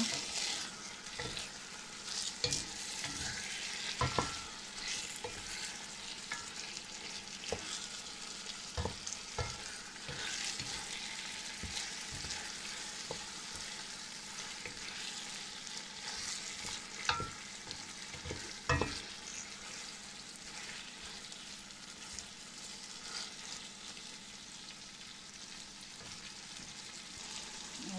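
Chicken pieces and fried onions sizzling in oil in a pan as a wooden spoon stirs them, with a few sharp knocks of the spoon against the pan. The chicken is browning.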